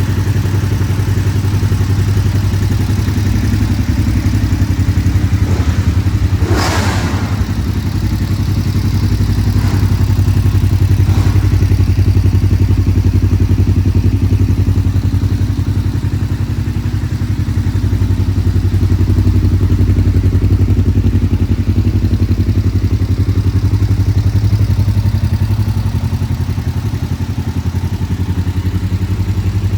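2004 Kawasaki EX500's 498 cc parallel-twin engine idling steadily. About seven seconds in, a brief sound falls in pitch over it.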